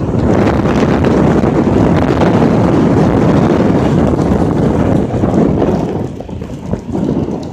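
Strong wind gust buffeting the phone's microphone, a loud rumbling roar that starts suddenly and eases off about six seconds in.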